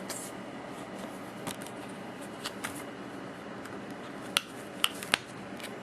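Plastic Blu-ray disc case and discs being handled: scattered small clicks, then three sharp plastic clicks in quick succession near the end.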